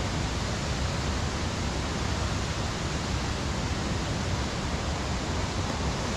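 Steady rushing of water falling at a waterfall, an even noise with no breaks.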